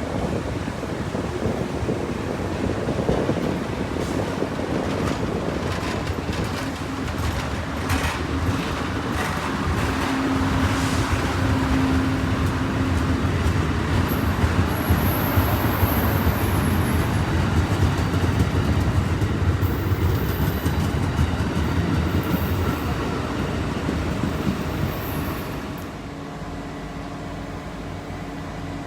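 Tri-Rail commuter train running on the track: a steady rumble with a run of sharp clicks in the first third, quieter for the last few seconds.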